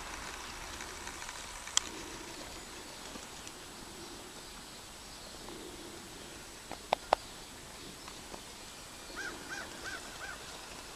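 Quiet outdoor background with a few sharp clicks, then near the end a bird calling four quick, evenly spaced notes.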